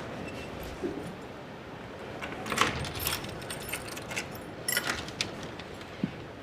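A bunch of keys jangling with sharp metallic clicks, a door being unlocked.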